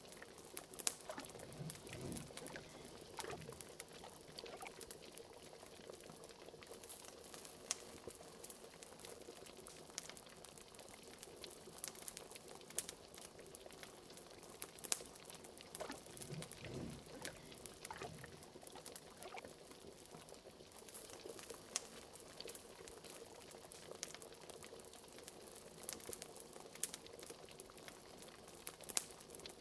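Liquid bubbling at a boil in a pot, with a few deeper gloops along the way, over the frequent sharp crackle of a wood fire.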